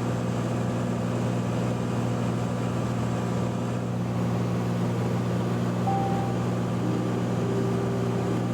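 Steady drone of a 2009 Cessna T182T's turbocharged Lycoming six-cylinder engine and propeller in level flight, heard inside the cabin. Near the end a few short, steady higher tones sound over it.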